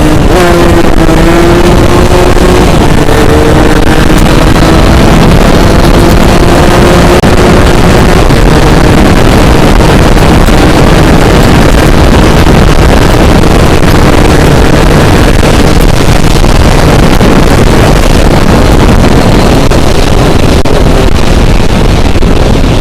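Motorcycle ridden at speed, heard from the pillion: wind rushing over the microphone drowns most of it, with the engine note rising and falling under the rush in the first few seconds and again near the end.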